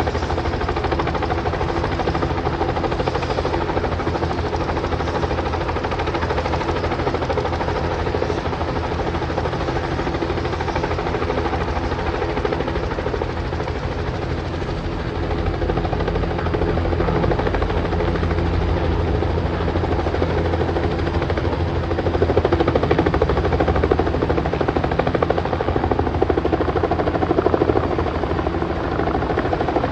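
Bell 206 helicopter's turbine engine and rotor running, a steady tone with a fast, even rotor beat, growing louder about two-thirds of the way through.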